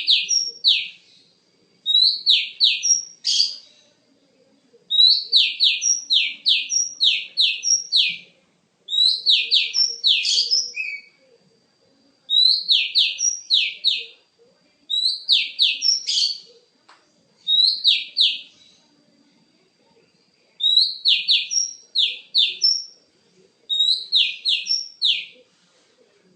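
Female oriental magpie-robin (kacer) calling in repeated bouts of three to six quick, sharp, falling high notes, each bout lasting one to three seconds with short pauses between. It is a call used as a lure to set male magpie-robins singing.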